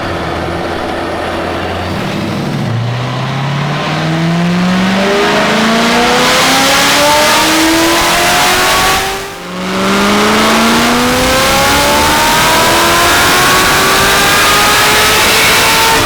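Supercharged V8 car accelerating at full throttle, the engine climbing steadily in revs. There is one upshift about nine seconds in, then it climbs again. This is a test pull during tuning.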